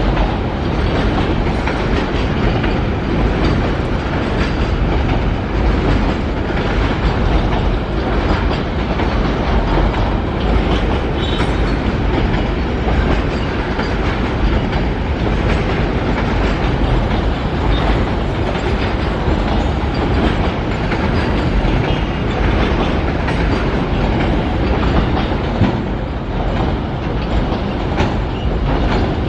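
A train's wagons rolling past close by, the wheels clattering steadily over the rail joints.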